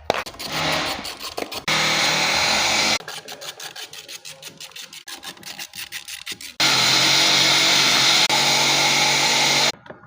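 A power tool running in bursts during engine work, with two steady stretches of running and between them a rapid, rhythmic clicking.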